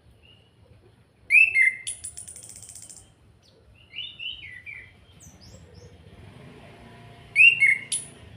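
Chestnut-capped thrush (anis kembang) singing: three short phrases of sliding whistled notes, the first running into a high buzzy rattle about a second long.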